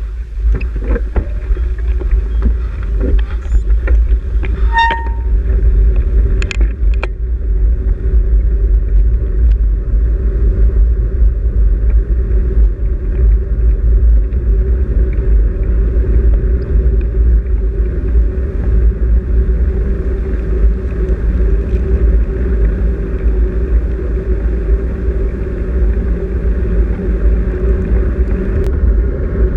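Wind and road rumble on the microphone of a camera on a moving bicycle. It is a steady loud low rumble with a constant hum underneath, and a few sharp clicks in the first several seconds.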